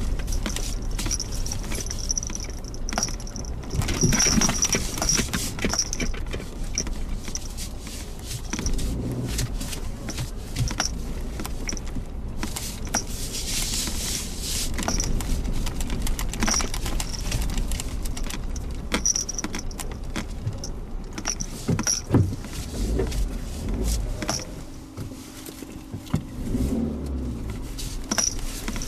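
Suzuki Jimny Sierra driving on a narrow mountain forest road: low engine and road rumble with frequent rattling clicks and short, high squeaks that come and go.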